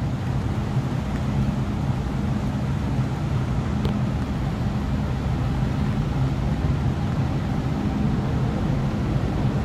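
MTR M-Train electric metro train running through the station, a steady low rumble with a hum underneath and a faint click about four seconds in.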